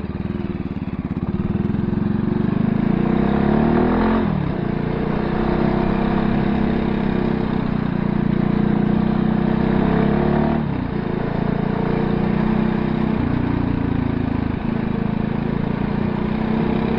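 Voge 300R motorcycle engine pulling through the gears while riding: the revs climb, fall at an upshift about four seconds in, climb again and fall at a second upshift near eleven seconds, then hold fairly steady.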